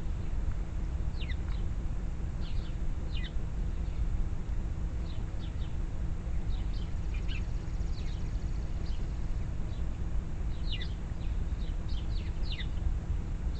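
Small songbirds chirping: short, quick falling notes in little clusters of two or three, repeated every second or so, over a steady low rumble.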